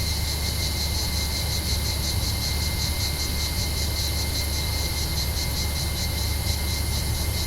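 Cicadas in olive trees buzzing steadily, a high shrill drone that pulses evenly about five times a second, with a low steady rumble underneath.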